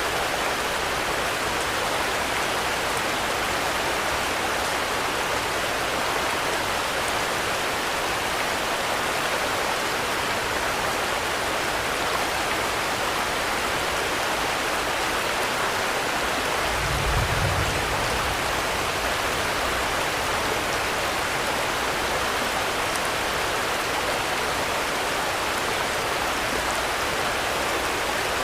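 Steady rain falling as an even, unbroken hiss. A brief low rumble comes about two-thirds of the way through.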